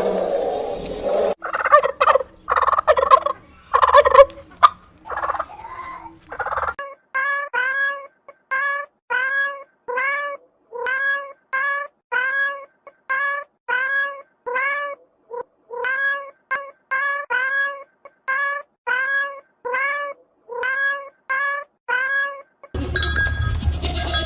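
An animal calling: a few loud, irregular calls, then a long run of short, evenly spaced calls, each rising and falling in pitch, about one and a half a second.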